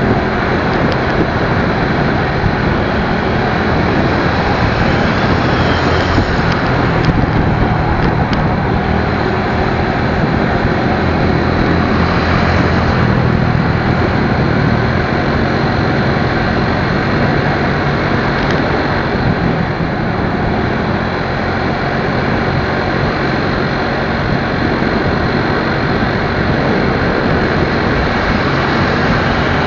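Motorcycle on the move: the engine running steadily under loud, even wind and road noise.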